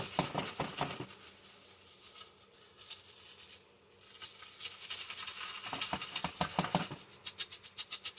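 Sand being shaken through a very fine plastic mesh strainer, sifting out small circuit-board components left in the sand after depopulating boards. It is a rapid rattling shake at first and again near the end, with a quieter hissing stretch between.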